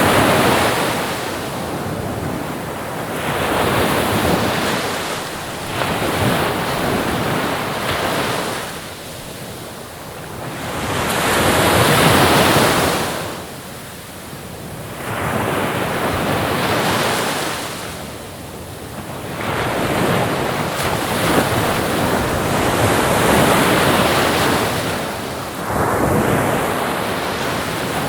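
Ocean waves washing onto a shore, the surf rising and falling in long surges about every four to six seconds.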